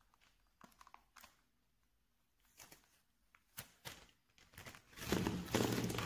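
Packaging of a marker set being handled and opened: a few scattered light taps and clicks, then a second or so of rustling, tearing packaging near the end.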